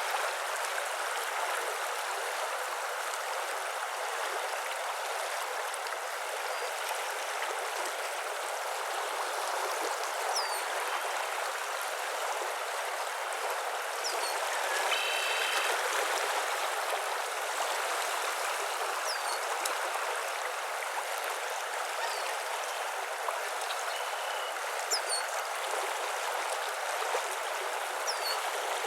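Steady rushing of running water, like a stream, with faint short bird chirps now and then and a brief pitched bird call about halfway through.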